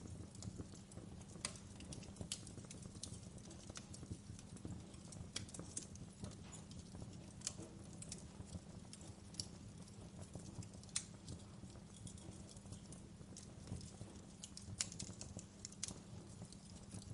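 Fire crackling: irregular sharp pops and snaps, a few a second at most, over a steady low rumble.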